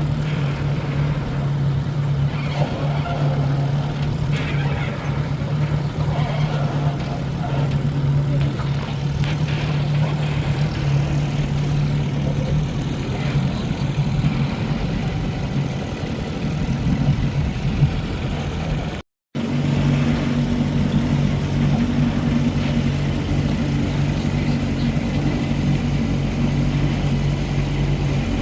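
Johnson 20 hp outboard motor running steadily under way, its even engine note over wind and water noise. The sound cuts out for a moment about two-thirds of the way through, then the engine note returns slightly changed.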